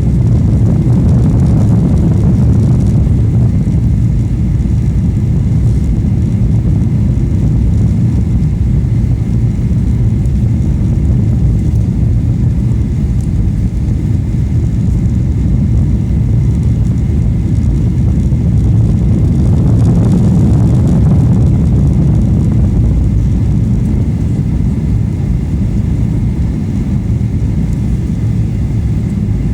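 Airliner cabin noise heard from a passenger seat: jet engines and rushing airflow make a steady, loud low rumble, swelling slightly twice.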